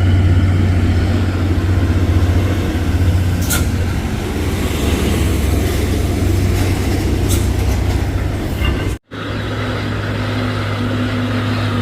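Heavy truck's diesel engine running at a steady pitch. Two faint clicks come in the middle, and the sound cuts out for an instant about nine seconds in.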